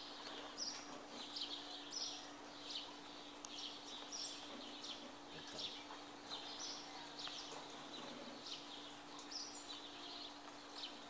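Birds chirping over and over in short high chirps, about one or two a second, with a few higher sweeping notes now and then. A steady low hum runs underneath.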